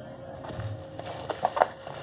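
Crinkling and rustling of packaging being handled, with a quick cluster of sharp clicks and snaps about one and a half seconds in.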